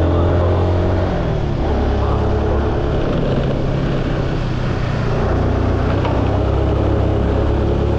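Car engine and road noise heard from inside the cabin while driving. The engine note drops about a second in and picks up again about five seconds in.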